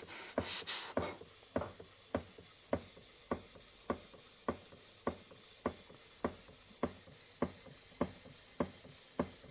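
Model Mary beam engine running steadily on compressed air, its exhaust giving a sharp, regular beat a little under two times a second, like a small steam train.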